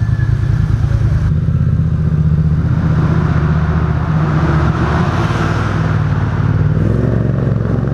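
A vehicle engine and exhaust running steadily, with the revs rising slightly near the end.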